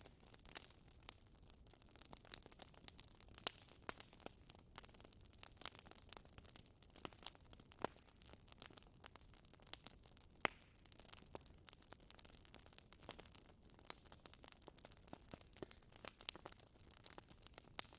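Wood fire in a fireplace crackling: faint, irregular sharp pops and snaps over a low hiss, the loudest snap about ten seconds in.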